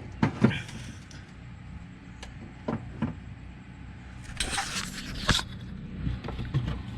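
Scattered clinks and knocks of metal parts and tools being handled at the engine bay, with a short rough scraping rustle a little after four seconds in that ends in a sharp click.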